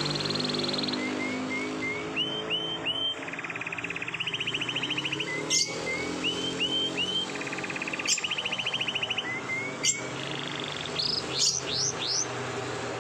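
Domestic canary singing a long rolling song: fast, even trills alternate with repeated short rising whistled notes, broken by a few sharp chirps, and a run of quick sweeping notes near the end.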